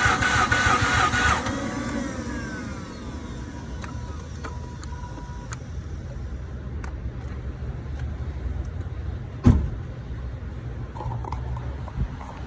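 2007 Mazda RX-8's starter cranking the rotary engine in an even rhythm without it firing, a no-start although the engine is getting fuel. The cranking stops about a second and a half in and winds down in falling tones, leaving a low steady rumble with a few light clicks and one sharp thump later on.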